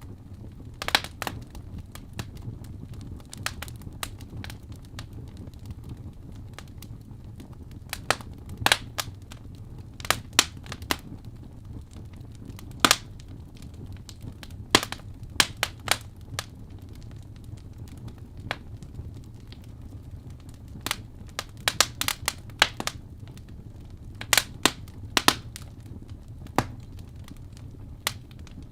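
Wood fire burning in a fireplace: a steady low rumble of flame with sharp, irregular crackles and pops from the logs, coming in clusters every second or two.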